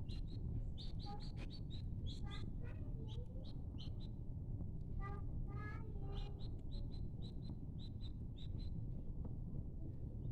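Small birds chirping: many short, high notes repeating throughout, with a couple of lower, fuller calls around the middle, over a steady low background rumble.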